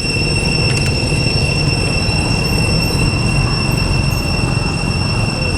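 Steady, unbroken high-pitched insect drone over a low rumble.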